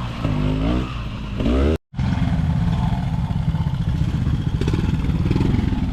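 Trials motorcycle engine revved up and down in quick blips. After a sudden break about two seconds in, a motorcycle engine runs steadily at low revs with a fast, even beat.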